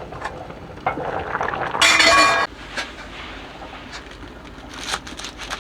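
Dishes and utensils clinking, with one brief, loud ringing clatter about two seconds in, then scattered light clicks.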